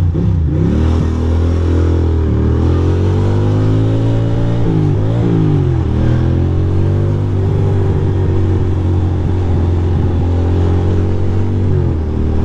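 2006 Ducati Monster 620's air-cooled L-twin engine under way, its note climbing and dropping several times as the rider accelerates and shifts, then holding steady at a constant speed before dropping again near the end.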